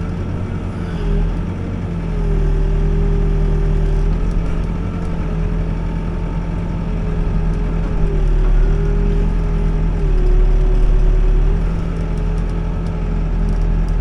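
Backhoe engine running steadily under work, its pitch dipping slightly and recovering every few seconds.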